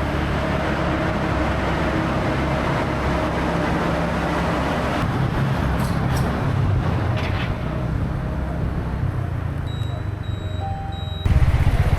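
Motorcycle engine running steadily under wind and road noise while riding along a road; it gets suddenly louder near the end.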